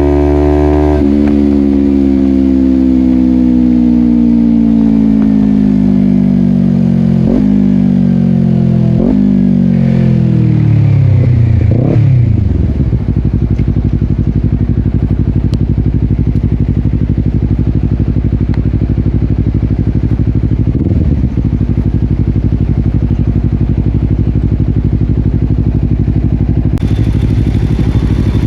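Honda CBR250RR SP's parallel-twin engine through a Yoshimura exhaust, its pitch falling as it slows from high revs, with three quick rev blips on downshifts. About halfway through it settles into a steady idle, and near the end it revs up again.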